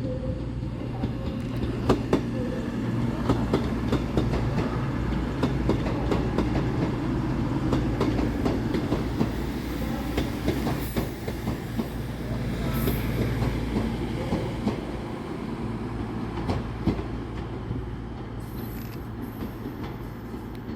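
A train running past, its wheels clicking over rail joints and pointwork above a steady low hum from its traction. It grows louder, then eases away near the end.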